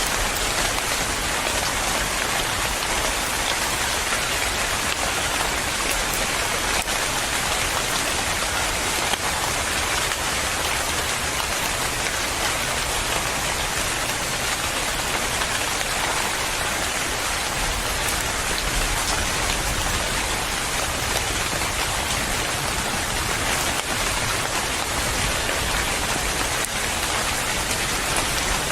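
Steady rain falling on a surface, a dense even patter of drops that does not let up.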